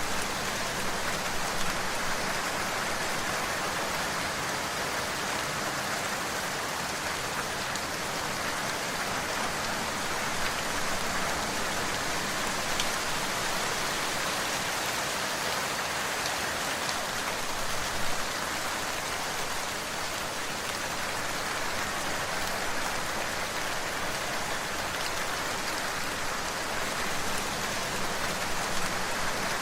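Steady rain falling on a surface, an even hiss with a few louder individual drops standing out.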